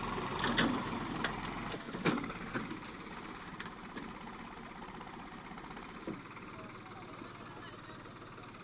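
A tractor's diesel engine running, with several sharp knocks in the first two seconds or so; the sound eases slightly after that.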